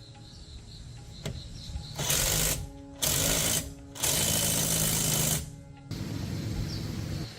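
Stihl 08 two-stroke chainsaw engine revved in three short bursts, the last and longest about a second and a half, then running more quietly at a lower speed.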